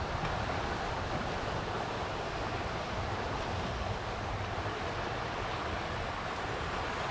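Steady rushing of a small creek's running water, an even hiss without breaks.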